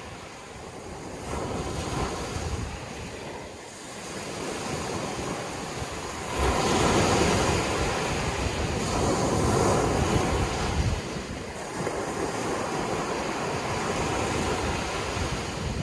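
Sea waves washing in and out, with a large surge starting about six seconds in and lasting several seconds.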